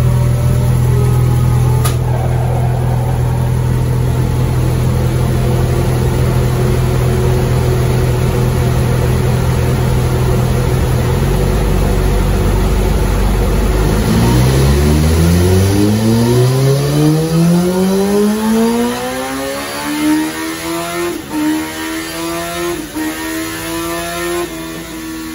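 Kawasaki ZX-14R's inline-four with Two Brothers slip-on mufflers running on a chassis dyno: steady for about eleven seconds, dropping to a lower note, then from about fourteen seconds in a full-throttle dyno pull with the engine note rising steadily until it levels off near the end.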